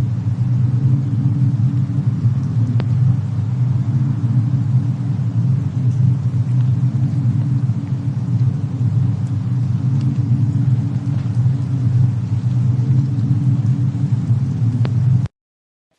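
Steady low rumble of a fireplace-and-snowstorm ambience track, with a couple of faint fire crackles. It cuts off suddenly near the end.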